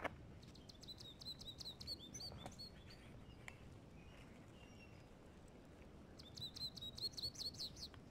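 A songbird's faint, rapid series of repeated chirps, twice: once starting about half a second in and again near the end.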